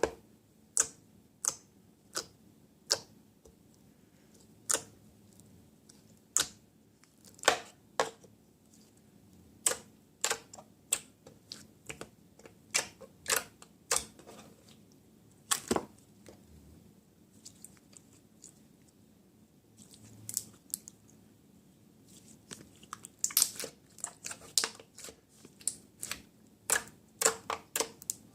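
Irregular sharp clicks and snaps from slime and its plastic packaging being handled, spaced out at first and coming in quicker runs near the end.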